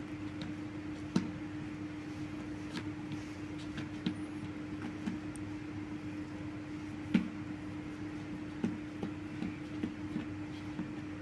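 Steady machine hum with a few scattered light knocks and clicks, the sharpest about a second in and again about seven seconds in.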